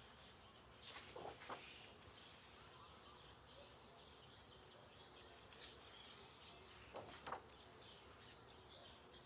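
Near silence: faint rustles of paper coloring-book pages being turned, with a few faint high chirps.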